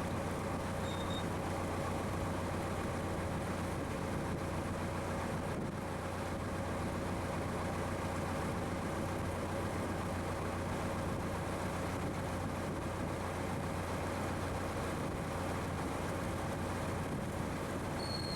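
Motorboat engine running steadily at an even speed, a constant low hum with a steady tone above it.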